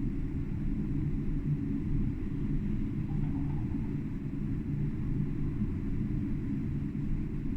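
Tram running along the track, heard from the driver's cab as a steady low rumble.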